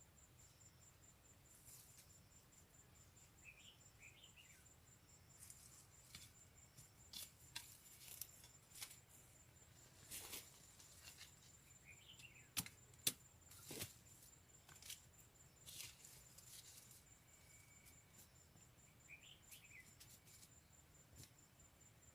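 Faint outdoor ambience: a steady high insect trill, with a few short chirping bird calls and scattered rustles and sharp clicks, the loudest about halfway through.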